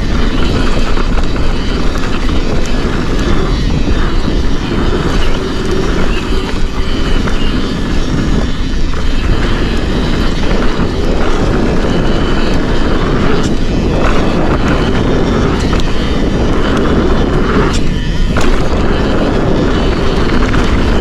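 Mountain bike (Forbidden Dreadnought) riding down a dirt trail: loud, steady wind rush over the camera microphone with tyre and trail noise, broken by scattered clicks and knocks from the bike.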